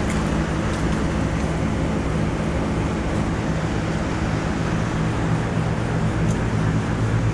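Steady drone of running commercial air-conditioning units: a low compressor hum under the even rush of condenser fans.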